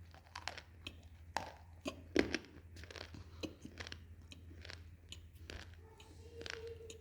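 Close-miked crunching and chewing of something hard and brittle: irregular sharp cracks, the loudest about two seconds in.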